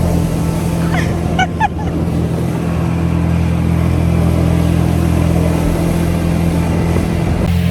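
An engine running steadily with a low, even hum, with a few short high chirps about a second and a half in.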